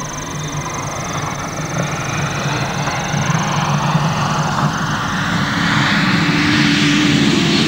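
A rally car's engine approaching, growing steadily louder, its pitch climbing as it accelerates.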